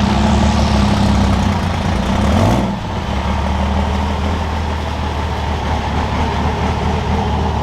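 Diesel pickup truck engine running. Its pitch rises briefly about two and a half seconds in, then it drops back and runs steadily near idle.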